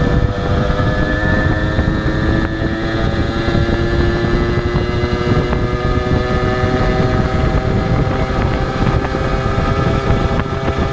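Honda H100S two-stroke single-cylinder motorcycle engine running on the road. Its pitch drops right at the start, as at a gear change, then rises slowly and steadily as the bike gains speed, with wind rumbling on the microphone.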